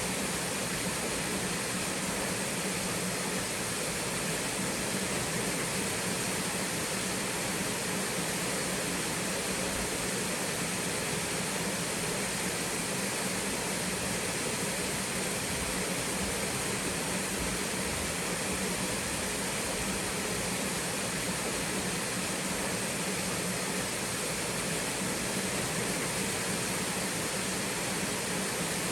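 Small twin waterfall on a mountain stream: water falling and splashing in a steady, unbroken rush.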